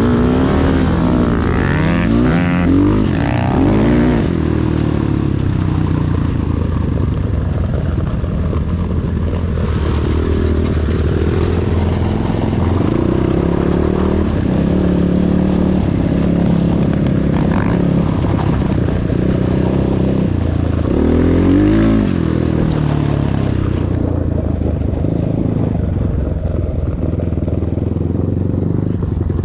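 Motorcycle engine running and being revved, its pitch rising and falling several times, with the biggest sweeps about two seconds in and again around twenty-one seconds.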